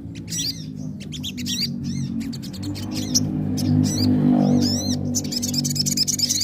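Crimson sunbird singing: a run of quick, arched high chirps, breaking about five seconds in into a fast, dense trill, the rapid 'nembak' song. A steady low hum of background music runs underneath.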